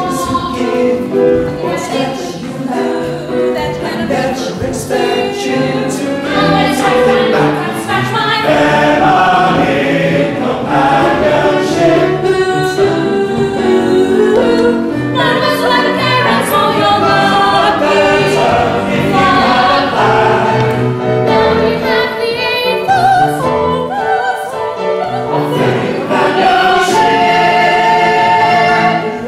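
A chorus of voices singing an ensemble number from a stage musical, the singing going on throughout.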